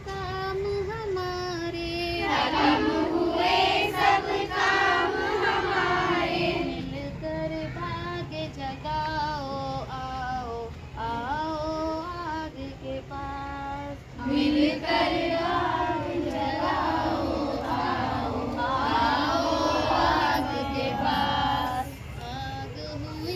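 Young girls' voices singing a song unaccompanied. Clearer, thinner phrases alternate with louder, fuller passages where more voices join in, about two seconds in and again from about fourteen seconds.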